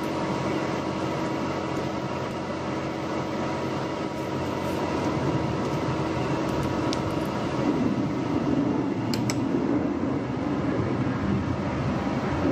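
Steady machine noise with a low hum, with a few faint clicks in the second half.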